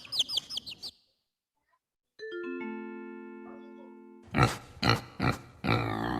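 Chicks peeping rapidly, stopping about a second in. After a short silence a bell-like chime plays a descending run of about four notes that ring on, then a pig grunts several times in short bursts.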